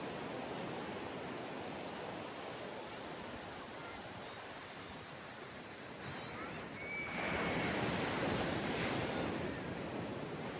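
Sea surf washing onto a sandy beach, a steady hiss of water with one louder wave breaking and rushing up about seven seconds in, lasting about two seconds.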